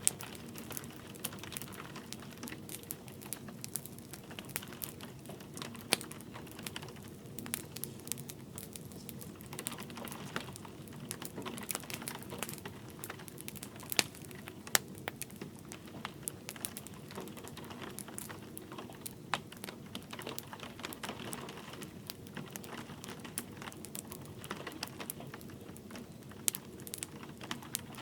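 Wood fire crackling in a fireplace, with scattered sharp pops and a few louder ones about 6 and 14 seconds in, over light rain pattering.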